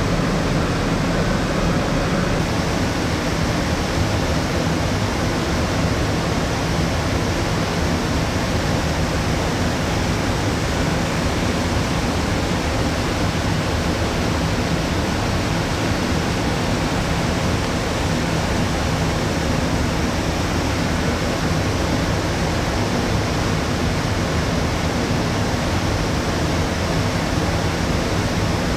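Steady rushing hum of a moored passenger ship's ventilation and onboard machinery, with a low steady drone underneath.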